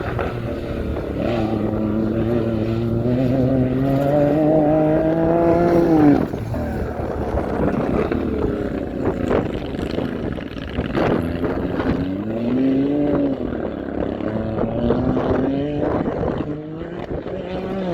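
Off-road motorcycle engine revving under throttle. Its pitch climbs for about six seconds, drops sharply, then rises and falls several more times as the rider works the throttle.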